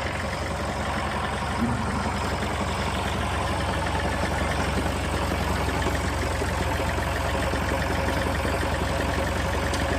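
Engine idling steadily: an even, low rumble that holds without change.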